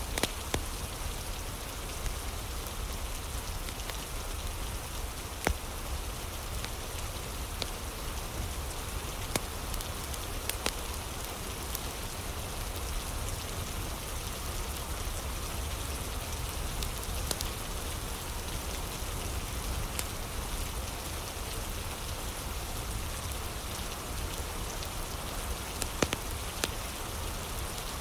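Steady rain falling, with scattered sharp pops and crackles from a wood fire, about a dozen of them at irregular intervals.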